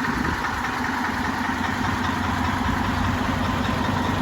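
Diesel engine of a Scania Caetano Levante coach idling steadily, an even low hum with a fine rapid pulse.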